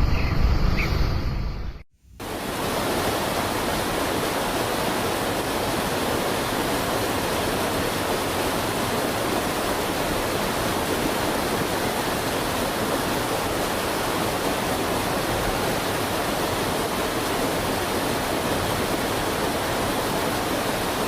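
A low rumble that cuts off abruptly about two seconds in, then, after a brief silence, a steady, even rushing hiss that does not change.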